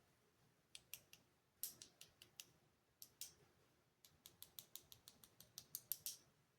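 Faint, dry, high clicks of a paintbrush tapping, irregular at first and then a quick run of about eight taps a second in the second half.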